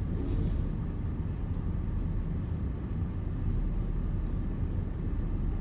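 Steady low rumble heard from inside a car's cabin in a brushless car wash: the wash's water jets and machinery, muffled through the car body.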